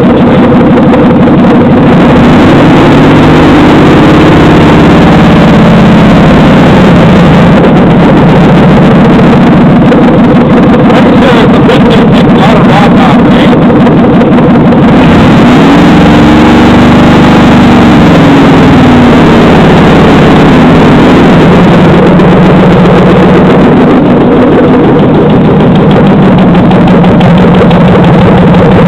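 Chevy 5.3-litre LH6 V8 with AFM running loud at idle and revved up and back down twice, once a few seconds in and again past halfway. It carries a tick that the owner takes for probably a lifter tick.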